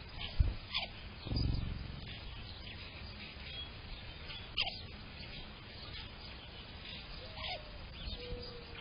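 Backyard songbirds calling, with three short sharp calls that fall in pitch, spaced a few seconds apart. Soon after the start there is a brief low thump, and a short low rumble follows it.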